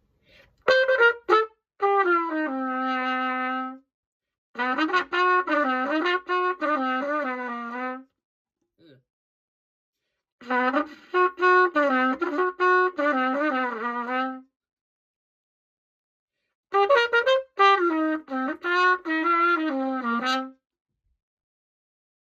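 Freshly repaired pocket cornet played as a melody in four short phrases with pauses between them. The notes step up and down, and the first phrase ends on a long held low note.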